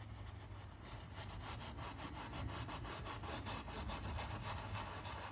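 Paintbrush scrubbing back and forth on a canvas, a dry scratching of several quick strokes a second that starts about a second in.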